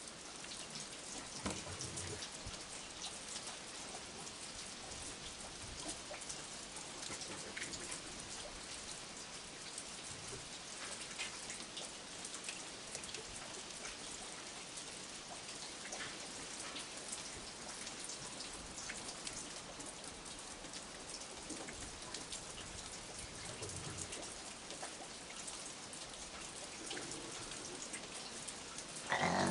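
Steady rain falling, with many small raindrops ticking on nearby surfaces. Near the very end comes a brief, louder pitched sound.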